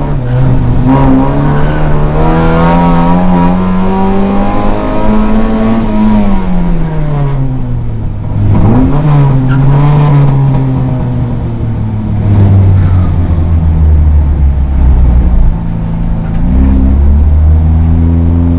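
Rally car engine heard from inside the cockpit, revs climbing steadily for about five seconds and then falling away as the car slows. A quick drop and rise in revs comes about eight seconds in, and the engine runs lower and steadier through the second half.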